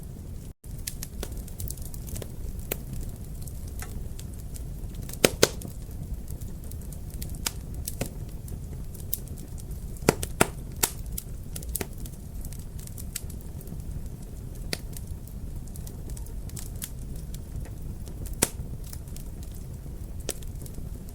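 Wood fire crackling in a fireplace: a steady low rumble of burning, with frequent small crackles and a few louder pops, two close together about a quarter of the way in, two more about halfway, and one near the end. The sound drops out for an instant about half a second in.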